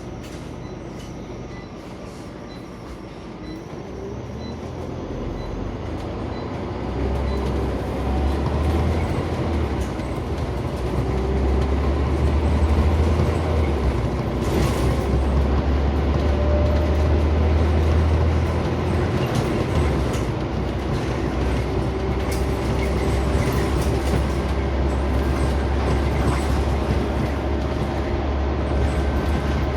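Inside a Scania CN94UB Omnicity single-deck bus on the move: a deep engine and road drone that builds over the first several seconds as the bus picks up speed, then carries on steadily with light interior rattles.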